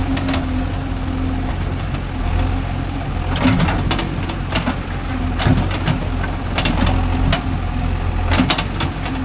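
Diesel engine running steadily at idle, with a few short sharp knocks now and then.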